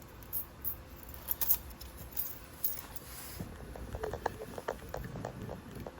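Scattered light metallic clicks and clinks of hand tools working on a motorcycle's primary chain adjuster, with a quick run of ringing clinks in the second half.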